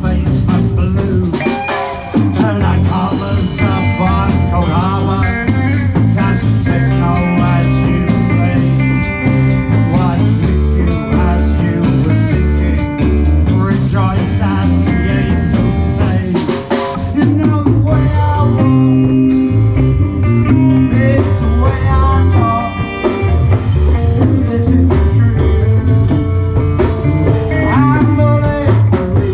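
Live rock band playing loud and steadily: drum kit, bass and electric guitar, with the guitar playing bending lead lines over a driving beat.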